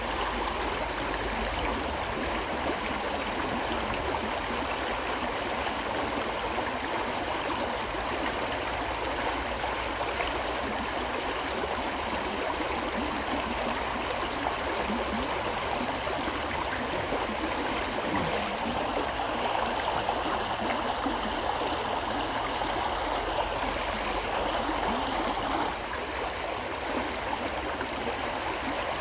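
A river flowing steadily over rocks, a continuous rush of water with gurgling.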